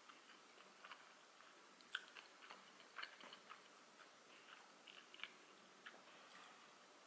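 Faint chewing of a mouthful of sushi: soft, scattered wet mouth clicks, with a sharper one about two seconds in and a few more around three seconds.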